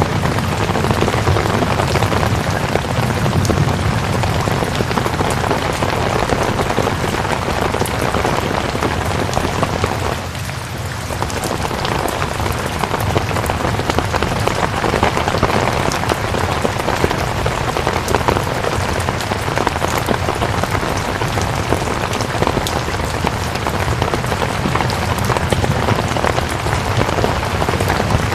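Steady heavy rain falling, a dense even hiss of drops, with a brief dip in level about ten seconds in.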